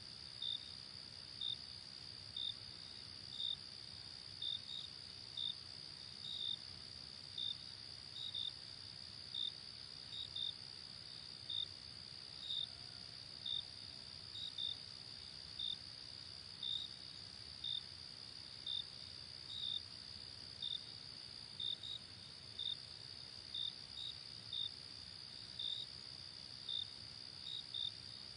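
Night insect chorus: a steady high-pitched cricket drone with a single cricket chirping over it about once a second, sometimes twice in quick succession, over a faint low background hiss.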